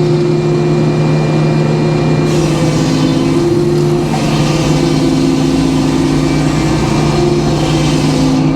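Sawmill's engine running steadily under load; from about two seconds in, a hiss rises over it as the saw cuts through the white oak log.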